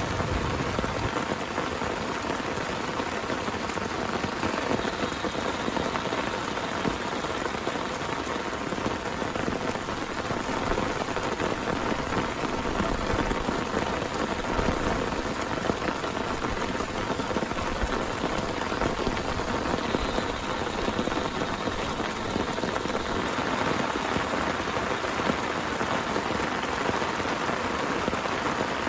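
Heavy rain falling steadily on a surface. The tail of a thunder rumble fades out in the first second.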